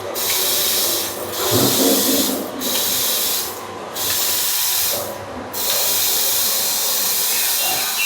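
Water spraying with a steady hiss that cuts out briefly four times and starts again.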